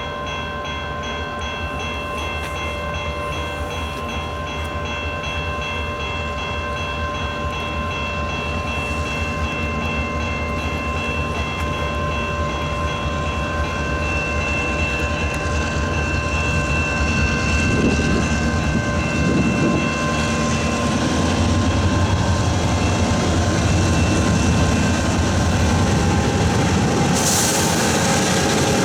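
Level-crossing warning bells ringing steadily as CN train 532 approaches. From about twenty seconds in, the locomotive's rumble and the wheels on the rails grow louder as it rolls through the crossing without sounding its horn. A brief hiss comes near the end.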